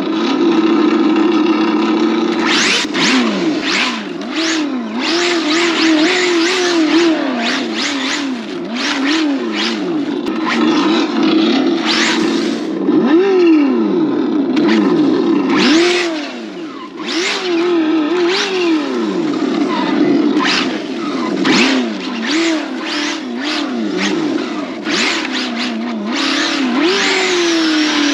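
Kyosho Inferno GT3 Mercedes-AMG GT radio-controlled car running hard on 4S. Its drive sound sweeps up and down in pitch over and over as it speeds up and slows, with repeated rushes of tyre and passing noise.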